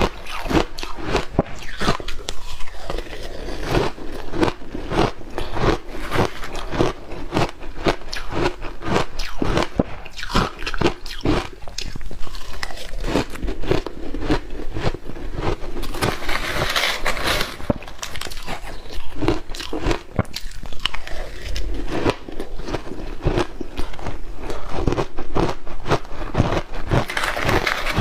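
Close-up biting and crunching of ice dusted with matcha powder: a dense run of crisp crunches, several a second, without pause.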